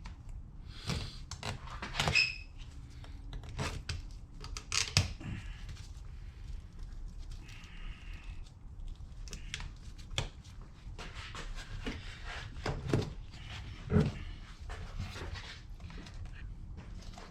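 Hand tools and metal parts being handled at a workbench: irregular clicks, knocks and short scrapes, with a brief squeak about eight seconds in.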